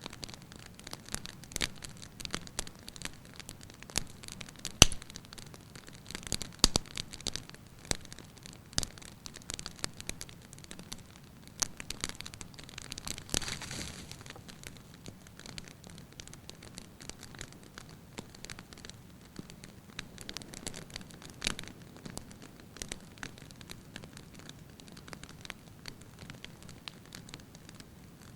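Wood fire burning in a fireplace, crackling and popping with irregular sharp snaps over a soft hiss. The loudest snap comes about five seconds in, and there is a short denser spell of crackling about halfway through.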